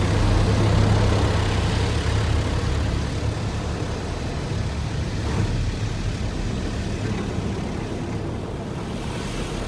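Automatic tunnel car wash equipment running, heard from inside the car: a steady rushing noise with a low hum, easing off a little after about two seconds.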